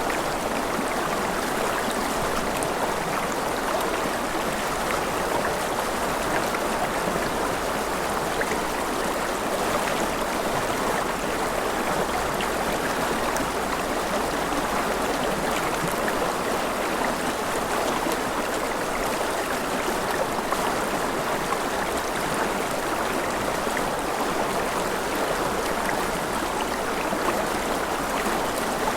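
Steady, even rush of water with faint scattered ticks, unchanging throughout.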